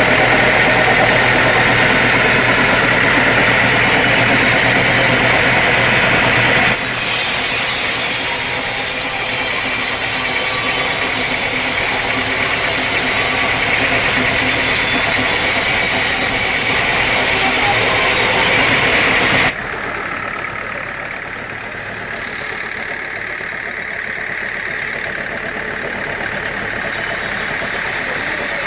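Sawmill machinery running steadily, with an engine hum and the hiss of sawing. The sound changes abruptly twice, about a third and two thirds of the way through.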